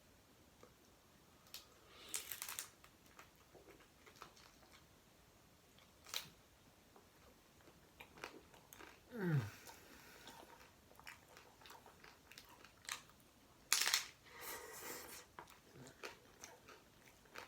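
Close-up crunching and chewing as a person bites into and eats tacos topped with a raw-broccoli pico de gallo, in scattered crisp crunches. A brief falling vocal sound comes about nine seconds in.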